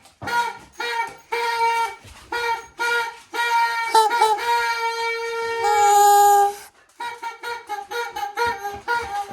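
Party horns blown in a string of short, buzzy toots, with a longer held blast just before the middle that stops abruptly, followed by quicker toots.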